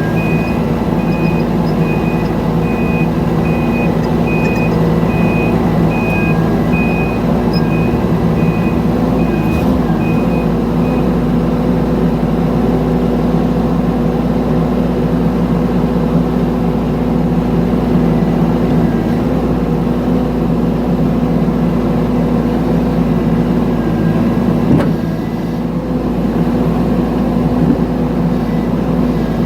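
Mini excavator's diesel engine running steadily, with its travel alarm beeping about twice a second for the first eleven seconds and then stopping while the engine runs on.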